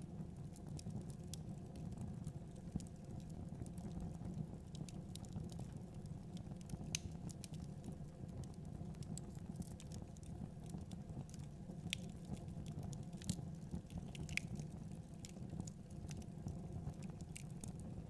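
Wood fire in a fireplace crackling: irregular sharp pops and snaps over a low steady rumble of the flames.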